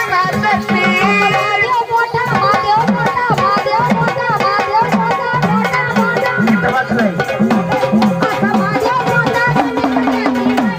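Gondhal folk music: sambal drum strokes whose low notes bend up and down in pitch, about two a second, under a sustained organ melody.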